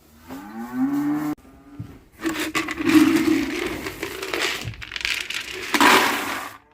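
A cow moos briefly at the start with a rising pitch, then dry cattle feed is tipped out of a plastic bucket, a scraping, rattling noise lasting several seconds.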